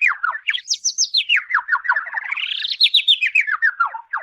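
Birds chirping in a rapid, continuous run of short chirps that sweep up and down in pitch.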